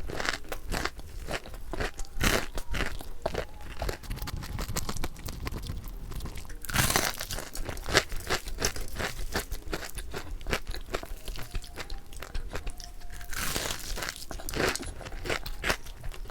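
Close-miked crunching and chewing of crispy-coated fried chicken (butter crunch chicken), a steady run of crackly bites with two louder crunches about seven seconds in and again near the end.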